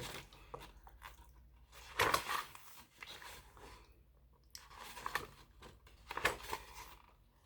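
A young child chewing and crunching food at breakfast: irregular, soft bites and chews with quiet gaps between them.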